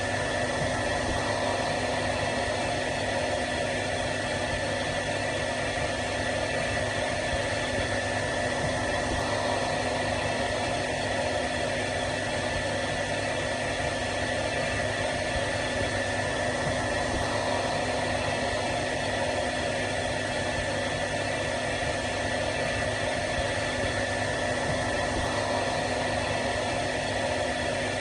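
Hair dryer running steadily: an even blowing whoosh with a constant motor whine and no change in speed.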